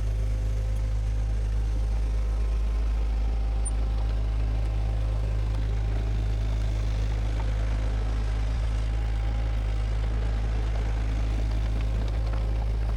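A bulldozer's diesel engine running at a steady, unchanging pace with a deep drone.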